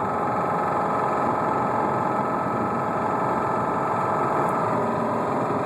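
2007 Subaru Outback's boxer engine running steadily at freeway speed, heard from inside the car, with a constant rapid rod knock from a spun connecting-rod bearing.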